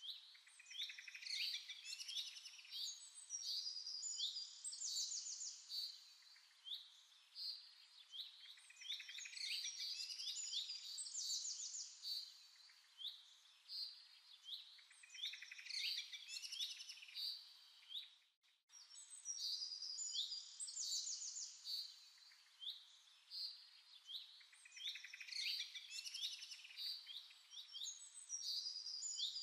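Songbirds chirping and trilling, in groups of calls that recur every seven or eight seconds, with a brief break in the sound about two-thirds of the way through.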